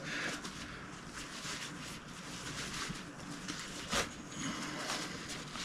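Faint handling noises of a shotgun bolt being turned over by hand, with one sharp click about four seconds in.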